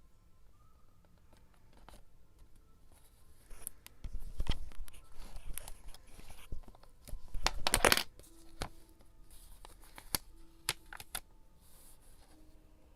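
Close-up scrapbooking sounds of paper being worked by hand. A dense stretch of rustling and scraping starts about four seconds in and is loudest near eight seconds, followed by a few separate sharp clicks and taps.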